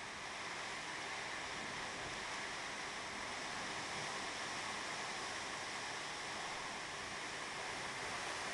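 Heavy hurricane rain and wind: a steady hiss of downpour on pavement and leaves, with no let-up.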